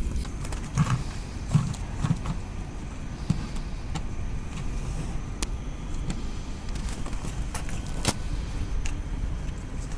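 Low steady background rumble with scattered light clicks and knocks; one sharp click about eight seconds in.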